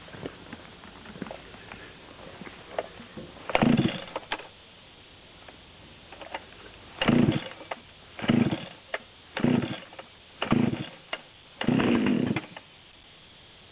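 Dolmar PS-7300 two-stroke chainsaw being pull-started from cold after three months' storage. Six short rasping pulls of the starter turn the engine over, the last five about a second apart, and the engine does not keep running between them.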